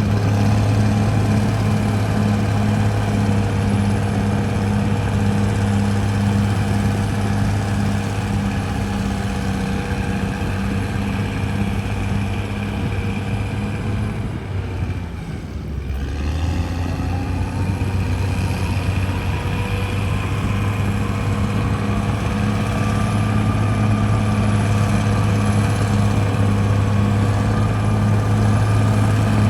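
CAT D6R bulldozer's diesel engine running steadily under work. It drops briefly about halfway through, then picks back up.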